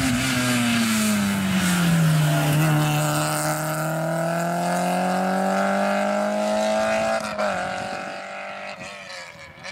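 Rally car's engine passing close by at speed, its pitch dropping as it goes past, then pulling away in one long rising gear. It shifts up about seven seconds in and fades into the distance.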